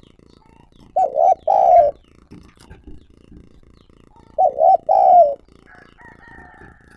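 Spotted dove cooing: two calls about three seconds apart, each two quick notes followed by one longer note.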